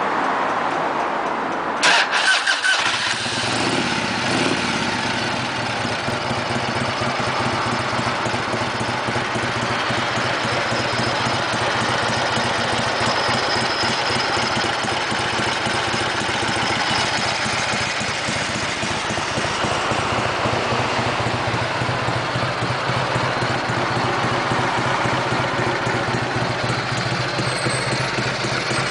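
1997 Harley-Davidson FLSTS Heritage Springer's 1340 cc Evolution V-twin being started: it turns over briefly, catches with a few loud bursts about two seconds in, then settles into a steady idle.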